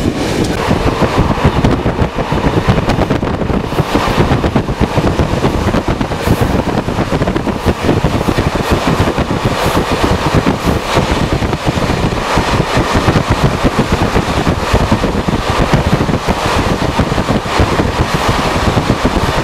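Intercity passenger train running, heard from aboard: a loud, steady rumble of the wheels on the track with a dense rattle.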